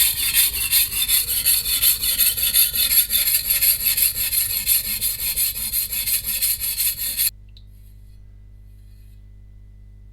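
Shun VG10 stainless Chinese cleaver being stroked rapidly back and forth on a 180-grit coarse whetstone (Suehiro Debado LD), a rhythmic gritty scraping as the stone grinds out edge chips. The strokes stop suddenly about seven seconds in, leaving a faint steady hum.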